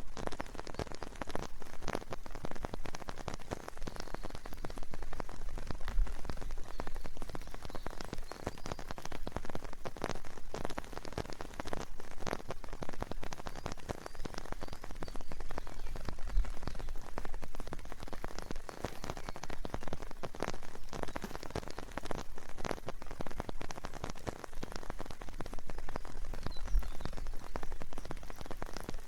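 Steady rain falling in a forest, a dense stream of separate drop hits on leaves and the ground.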